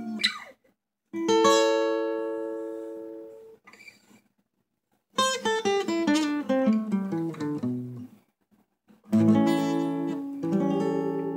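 Acoustic guitar played solo: a strummed chord rings out and fades, then after a short pause a run of single notes steps downward. Near the end two more chords are struck.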